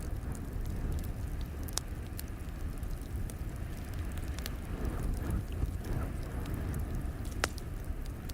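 Crackling fire in a fireplace: scattered sharp pops and crackles over a steady low rumble.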